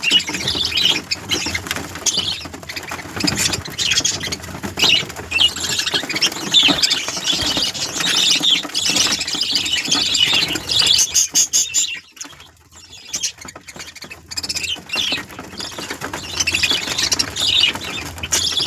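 Several birds chirping and squawking in a continuous, overlapping chatter of short high calls, with a brief lull about twelve seconds in.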